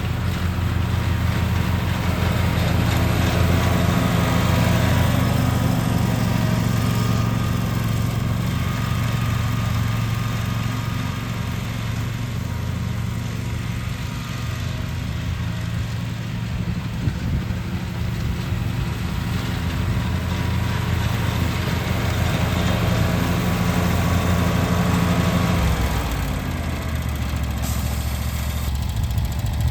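Lawn mower engine running steadily under load, then dropping in pitch near the end as it is throttled down.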